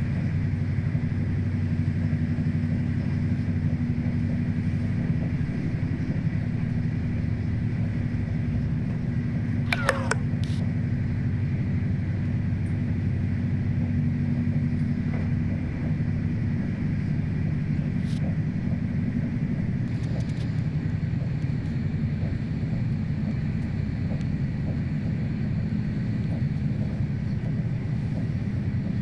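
A moving train's steady rumble and hum, with a sharp click about ten seconds in.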